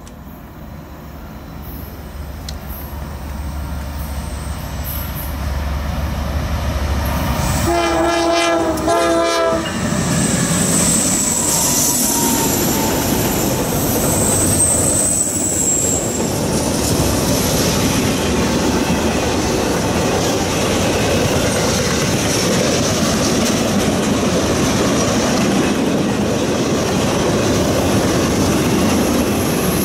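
Norfolk Southern freight train with GE diesel locomotives approaching, its engine rumble growing louder. The air horn sounds briefly about eight seconds in. The locomotives then pass and a long string of autoracks and trailer-carrying flatcars rolls by with steady wheel-on-rail noise and high wheel squeal on the curve.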